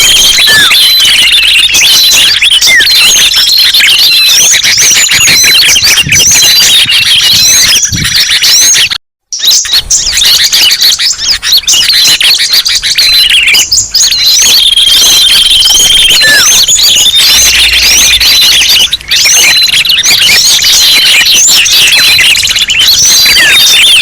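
Bird-lure recording of many small songbirds calling at once: dense, overlapping high chirps and short whistles with no let-up. The sound cuts out completely for a moment about nine seconds in, then resumes.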